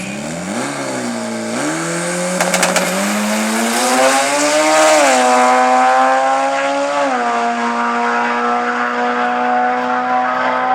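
Eight-second drag car making a pass: the engine note climbs through the gears, dropping at shifts about a second in, near five seconds and near seven seconds, then holds steady at high revs. A few sharp crackles come about two and a half seconds in.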